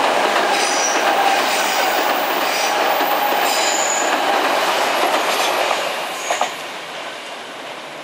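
Odakyu electric train running over the Kawaoto River railway bridge: a loud, steady rushing rumble with faint high wheel squeals, and two sharp rail-joint clicks about six seconds in. After that the sound fades as the train moves off.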